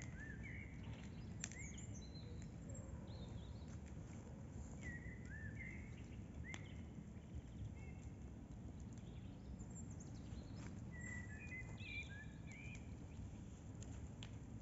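Nightingales singing outdoors: short repeated phrases of whistles and chirps. A few sharp clicks and a steady low background noise run underneath.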